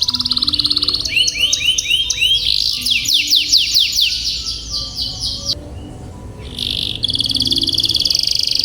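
Domestic canary singing: fast rolling trills and runs of sweeping chirps, a short lull about six seconds in, then a fast trill again. Soft background music with low held notes plays underneath.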